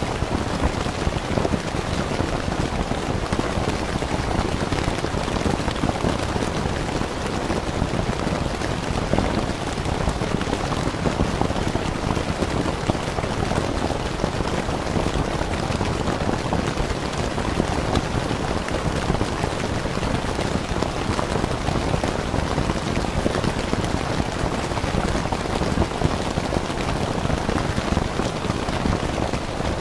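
Rain falling steadily on a tent: a dense, even patter of drops that never lets up.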